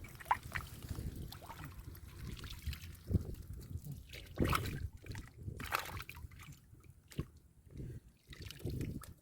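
Shallow muddy water sloshing and splashing irregularly as hands work through it to catch fish, with a few sharper splashes.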